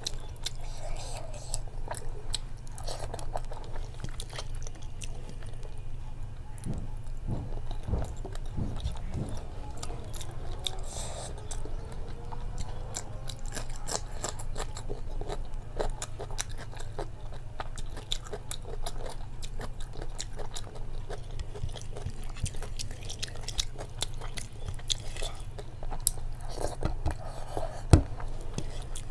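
Close-up mouth sounds of a person chewing a mouthful of rice and curry eaten by hand, with many small wet clicks, over a steady low hum. A single sharp click near the end is the loudest sound.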